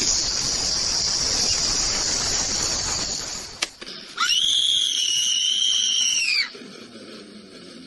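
A loud, harsh hiss for about three and a half seconds, then one high-pitched scream of about two seconds that swoops up, holds and drops away at the end.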